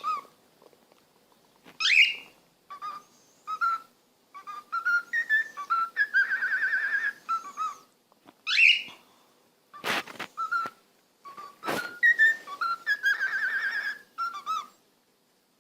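A parrot whistling a string of warbling notes with two quick upward swoops, broken by a couple of sharp clicks.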